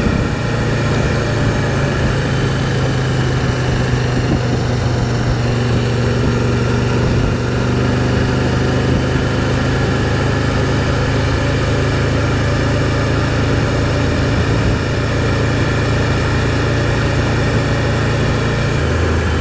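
Can-Am Spyder three-wheeled motorcycle's Rotax 1330 three-cylinder engine running at a steady, even pitch.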